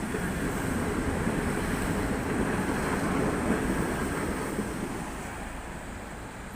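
Tatra KT8D5 articulated tram passing, a steady rumble that is loudest over the first few seconds and fades away after about five seconds.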